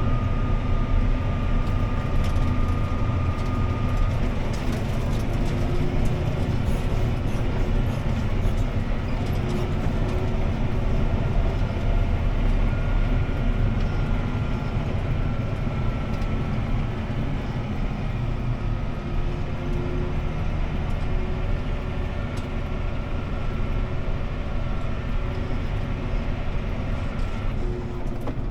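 CLAAS ARION 650 tractor's six-cylinder diesel engine running steadily under load while pulling a disc harrow, heard from inside the cab, with a faint high whine that drifts in pitch and scattered light ticks.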